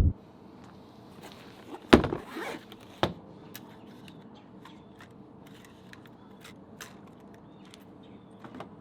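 A few sharp knocks and clicks of things being handled: the loudest about two seconds in, followed by a brief rustle, another knock a second later, then faint scattered ticks.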